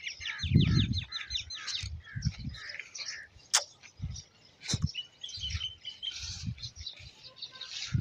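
Small birds chirping and twittering, with a quick run of repeated high chirps in the first two seconds and a short trill about five seconds in. A loud low rumble about half a second in, and a couple of sharp clicks later on.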